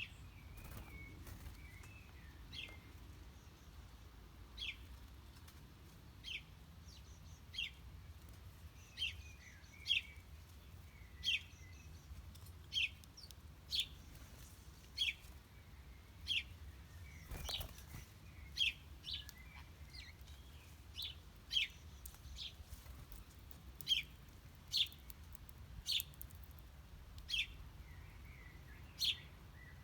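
Small songbirds chirping: short, sharp call notes, each falling quickly in pitch, repeated about once a second, with softer twittering between them.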